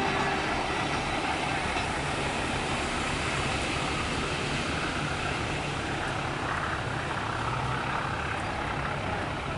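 Steady rumble of a train running past, slowly easing.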